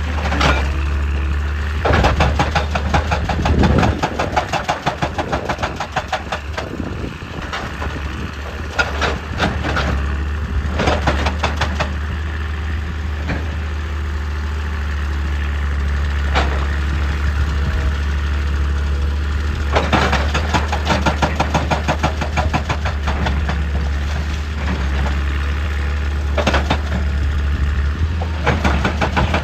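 Hydraulic excavator's diesel engine running steadily, with repeated bursts of rapid knocking from the machine at work.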